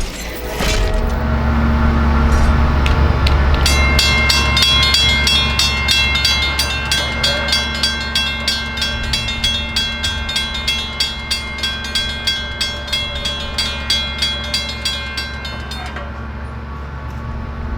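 A train rumbling through the level crossing. For most of it the crossing's warning bell rings about twice a second, then stops a couple of seconds before the end while the train's rumble carries on.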